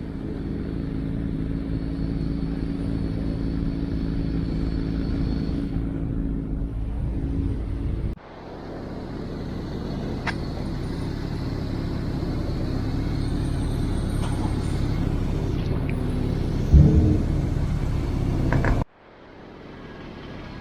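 BMW E34 525i on the move: steady engine note and road rumble, with abrupt cuts about 8 seconds in and near the end, and a brief louder burst around 17 seconds in.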